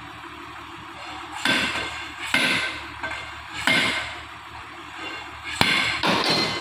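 Heavy steel being struck or knocked together: about five loud metallic clanks, irregularly spaced, each ringing on briefly, over a steady workshop hum.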